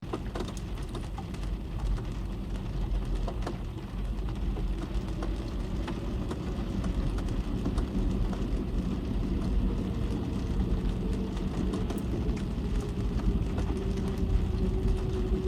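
Rain falling on a car's roof and windows, heard from inside the cabin: scattered drops tapping over a steady low rumble, with a faint hum coming in during the second half.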